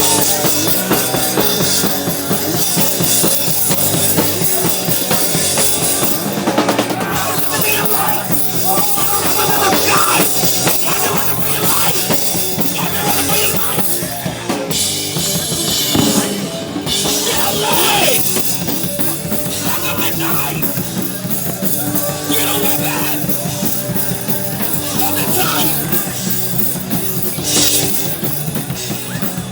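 Loud live hardcore punk band playing with drums and electric guitars, the full band running continuously.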